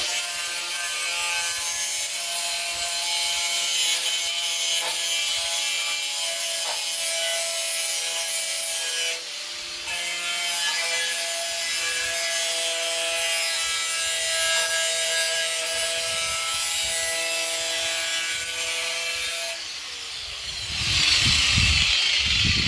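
Angle grinder grinding steel, a steady high whine over a rough scraping noise, let off briefly about nine seconds in. The grinder is clearing bare metal so the welder's ground clamp can make contact. Near the end it switches off and its pitch falls as the disc spins down.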